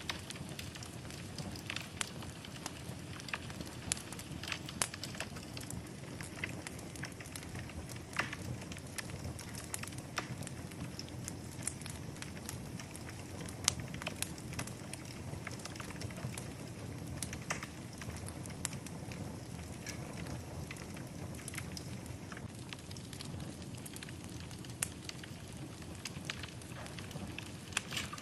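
Wood fire burning in a fireplace: irregular sharp crackles and pops, several a second, over a steady low rush of flame.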